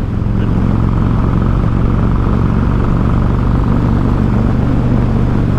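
Harley-Davidson Road King's V-twin engine running steadily while the motorcycle is ridden along, with an even rush of riding noise.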